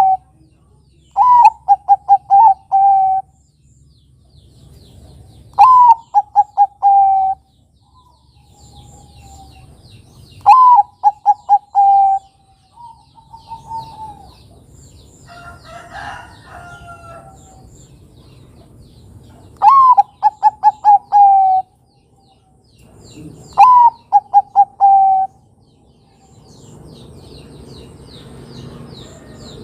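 Zebra dove of the Bangkok song line cooing: five phrases, each a higher opening note followed by a quick run of about five lower rolling coos, with pauses of a few seconds between them. Faint chirps of other small birds sound in the background.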